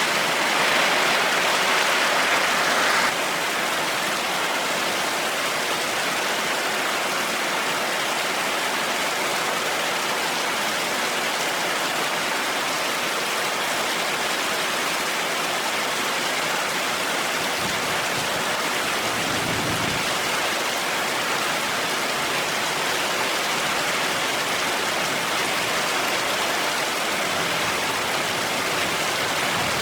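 Heavy rain falling steadily, an even dense hiss, a little louder for the first three seconds before easing slightly. A brief low rumble of thunder comes about two-thirds of the way through.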